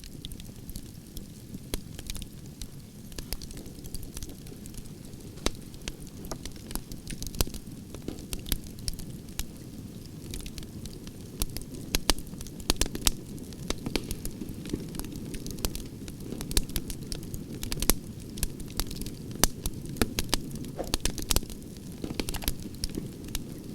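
Firewood fire burning: a steady low rush of flame with sharp, irregular crackles and pops from the burning logs. The pops grow louder and more frequent from about halfway.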